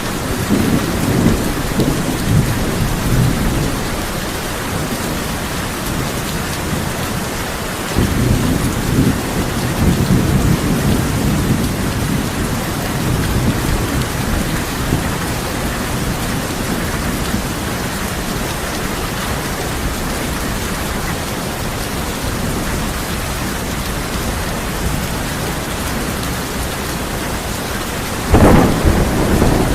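Heavy rain drumming steadily on a tin roof, with rolling thunder rumbling at the start and again about eight seconds in, and a sharper, louder thunderclap near the end.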